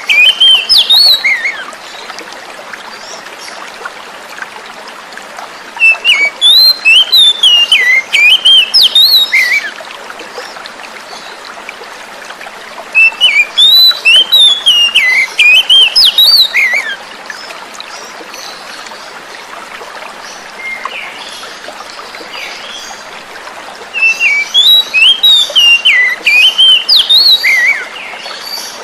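Oriental magpie-robin (kacer) singing loud, warbling whistled phrases in four bursts of a few seconds each, over steady running water. It is a lure song, played to prompt a caged kacer that has stopped singing to start again.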